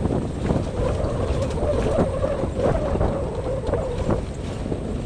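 Safari jeep engine running, with a wavering whine that stops about four seconds in, and wind buffeting the microphone.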